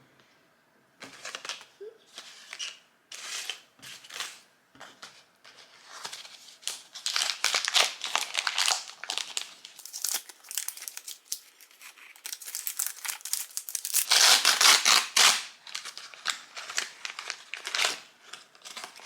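Plastic toy wrapping crinkling and tearing as a small accessory packet is ripped open by hand, in short scattered crackles at first, then dense and loudest about three-quarters of the way through, thinning out near the end.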